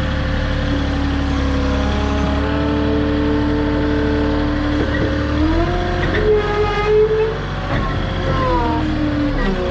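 Forklift engine running under load with its hydraulics working. Steady tones above the engine step and slide in pitch from about halfway through, as the machine strains against the heavy load on its forks.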